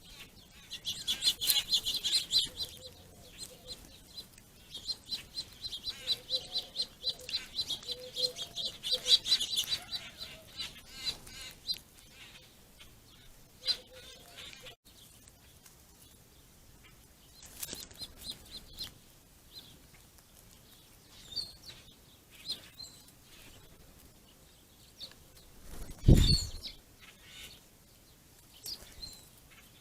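Small ground-feeding birds chirping in fast, dense runs for the first ten seconds or so, then chirping more sparsely. A single low thump sounds near the end.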